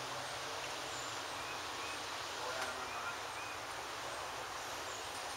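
Steady outdoor background noise, with a few faint short chirps scattered through it.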